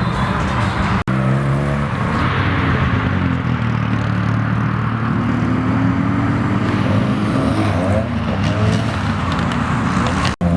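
Car engines running at the meet, their pitch slowly rising and falling as cars rev and move. The sound drops out for an instant about a second in and again near the end.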